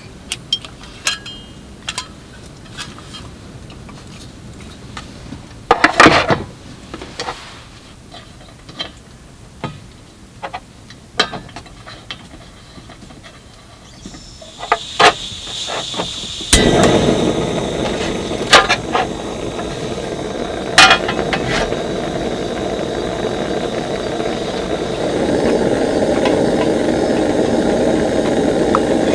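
Scattered sharp knocks and clicks of things being handled, then a steady rushing noise that starts suddenly about two-thirds of the way in and grows louder near the end.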